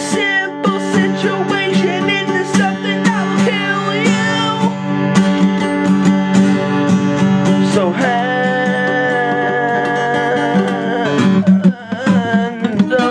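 Acoustic guitar song: a strummed acoustic guitar with a singing voice over it, and long held notes in the second half.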